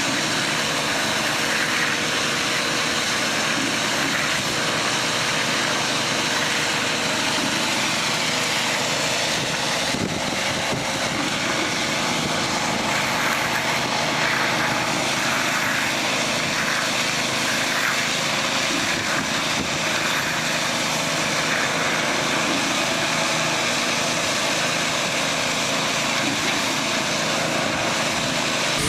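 Steady engine or motor noise running evenly throughout, with a constant hum over a rushing noise.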